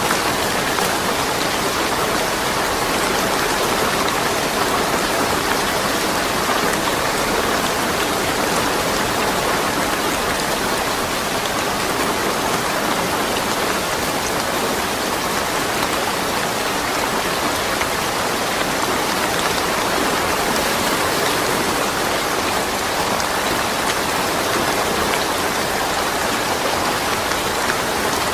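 Steady rain falling, an even patter with no thunder.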